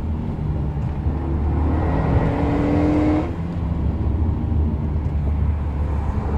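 Renault Mégane RS 265's turbocharged four-cylinder engine heard from inside the cabin at track speed, a steady low drone over road and tyre noise. Its note rises from about two seconds in and drops off just after three seconds, then settles again.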